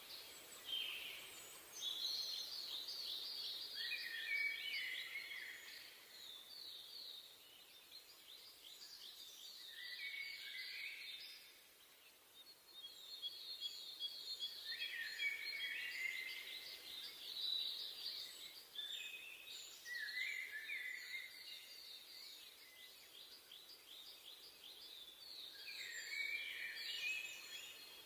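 Songbirds singing in a forest, several overlapping birds repeating short chirping, trilled phrases every few seconds over a faint, steady background hiss.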